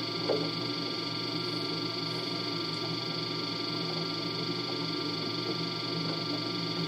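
LG DirectDrive F1496AD washer dryer running its drying cycle: a steady hum with a constant high whine from the drum motor and drying fan. A small knock sounds about a third of a second in.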